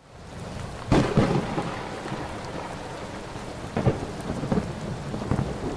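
Rain falling steadily with rumbles of thunder, fading in from silence. The strongest rumbles come about a second in and again around four to five seconds.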